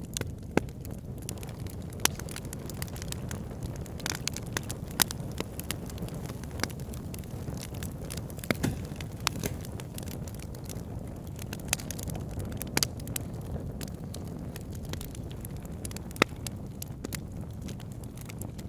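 Wood fire burning in a fireplace: a steady low rumble of flames with irregular sharp crackles and occasional louder pops.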